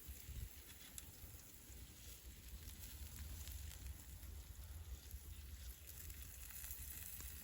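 Faint campfire crackling with a few sharp pops, over a steady low wind rumble on the microphone.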